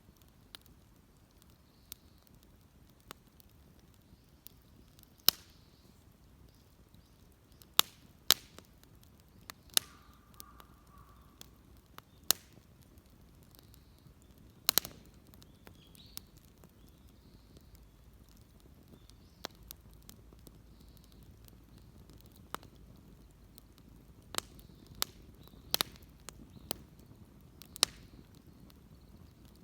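Wood bonfire crackling: irregular sharp pops, some loud and some faint, over a low steady hiss.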